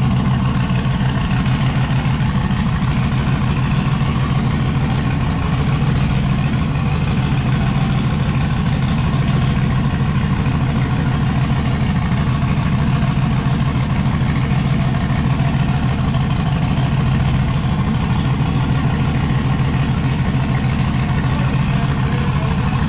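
Turbocharged LS V8 of a Chevrolet S10 drag truck idling steadily, with loud, even exhaust pulses.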